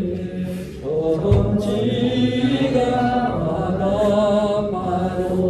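Several voices singing a Korean hymn together in slow, long-held notes.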